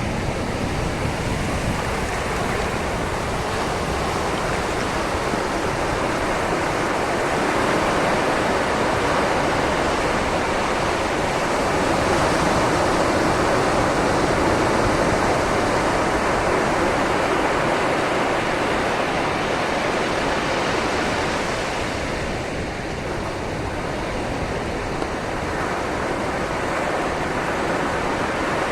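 Sea waves washing onto a shoreline: a continuous rush of surf that swells gradually and eases off again.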